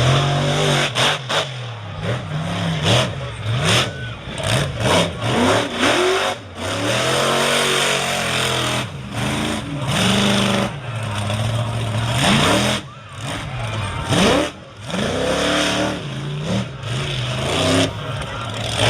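Monster truck engine revving hard, with quick throttle blips and cut-offs in the first half, then longer pulls with the pitch climbing and dropping.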